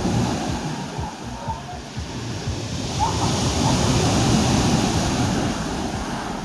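Sea waves washing onto the shore. A wave builds and breaks about halfway through, then washes back.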